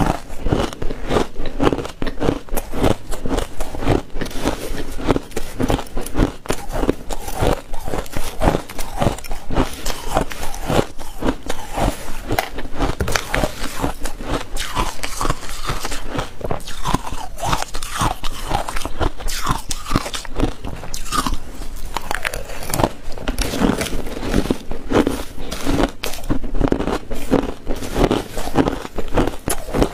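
Ice being bitten and chewed close to the microphone, a dense run of crunching and crackling as the ice breaks between the teeth.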